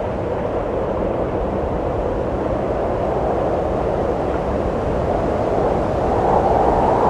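Wind blowing in a steady rush, swelling and rising in pitch over the last couple of seconds as a gust builds.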